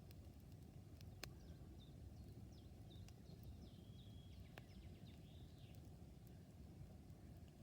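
Campfire burning quietly with a low steady rustle and two sharp crackles or pops, about a second in and again past the middle. Faint bird chirps sound in the background.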